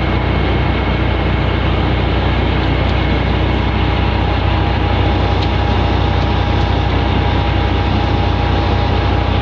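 Large truck engine running steadily at a constant speed, with a thin steady whine over it.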